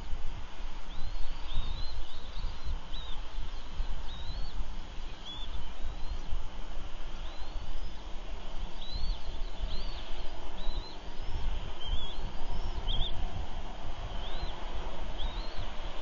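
A bird chirping over and over: short, thin, high chirps that rise in pitch, about one or two a second. Under them runs a steady low rumble.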